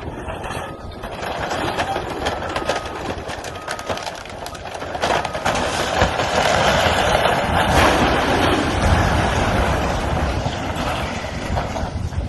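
Grain elevator being demolished: cracking, crunching and crashing of the structure over a heavy rumble. The din swells from about six seconds in and stays loudest for several seconds. A backup alarm beeps about once a second early on.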